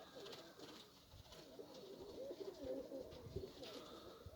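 Many domestic pigeons cooing at once, their faint calls overlapping without a break.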